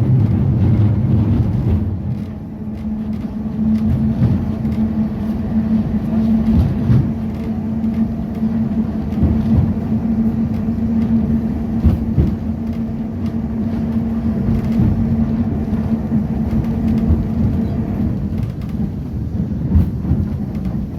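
Vintage Porto electric tram running along its line: a steady hum with rumbling wheels and frequent short knocks and rattles from the track.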